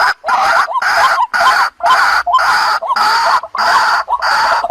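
Waterhen calling: harsh, croaking notes repeated in a steady series, about two a second.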